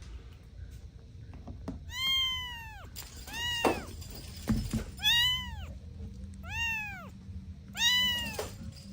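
A kitten meowing five times in high, rising-then-falling calls, the first starting about two seconds in. A short low thump falls between the second and third meows.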